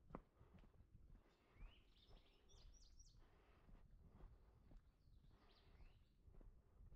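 Faint songbird song: several short phrases of rising, warbling notes. A single footstep sounds right at the start.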